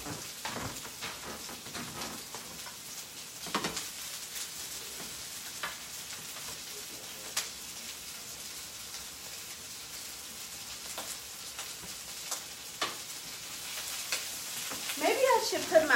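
Breakfast sausages and hash browns frying in oiled skillets: a steady sizzle with sharp pops and clicks now and then.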